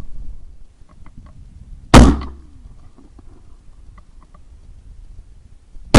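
Two shotgun shots about four seconds apart, one about two seconds in and one near the end. Each is a sharp, loud crack followed by a short echo.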